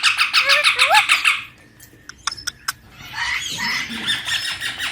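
Baby Indian ringneck parakeet giving rapid, pulsed squealing calls: a burst of about a second and a half, a short pause with a few small clicks, then a second long burst from about three seconds in.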